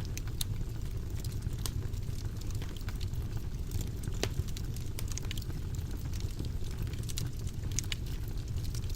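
Wood fire in a fireplace crackling, with irregular sharp pops over a steady low rumble of the flames; one louder pop about four seconds in.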